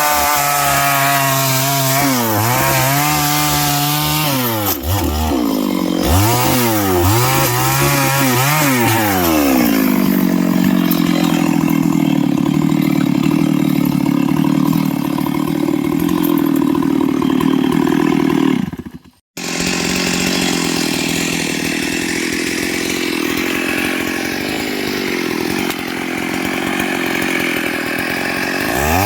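Stihl MS 382 two-stroke chainsaw with a 24-inch bar cutting wood. The engine revs up and down several times for the first ten seconds, then holds a steady high speed in the cut. The sound cuts out abruptly for a moment about nineteen seconds in, then the steady running resumes.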